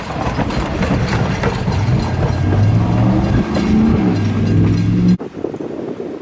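A passing train: wheels clicking over the rail joints, joined about halfway by a low pitched drone. The sound cuts off abruptly about five seconds in, leaving fainter wind noise.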